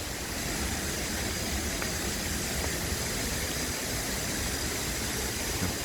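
Steady rushing roar of a waterfall in rainy-season flood, an even wash of water noise with a low rumble beneath.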